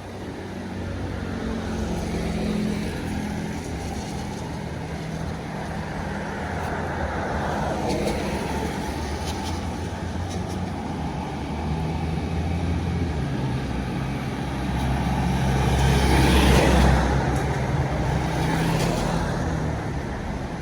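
Diesel engines of heavy vehicles passing on the road, with a steady low engine hum throughout; the loudest pass swells up about sixteen seconds in and fades.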